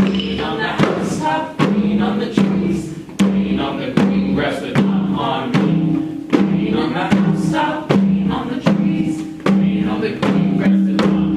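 Music with a steady drum beat, about one stroke every 0.8 seconds, over a low repeating two-note accompaniment, with a group of voices chanting along.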